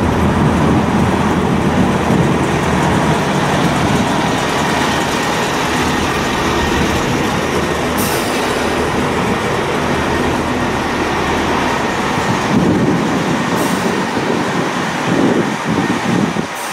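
Diesel train running at the platform, its engine giving a steady low rumble as it pulls away. Two brief, sharp high sounds come about eight and thirteen and a half seconds in.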